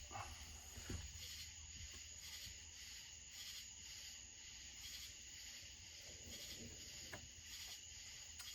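Crickets chirping in a faint, steady, pulsing chorus, with a couple of light clicks of parts being handled.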